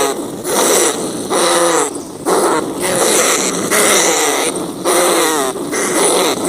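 Rats squealing and crying in a steady series of harsh, wavering calls, about one a second, each under a second long with short gaps between.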